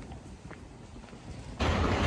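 Faint low rumble with a few light clicks, then, about a second and a half in, a sudden jump to loud, steady rumbling noise.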